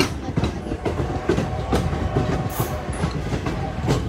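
Railroad passenger car running along the track: wheels clacking and knocking irregularly over the rails over a steady rumble and rattle.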